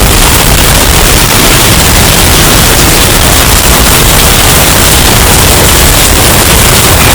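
Hurricane wind sound effect, bass-boosted and overdriven until it clips into a constant, distorted wall of noise with heavy rumbling bass.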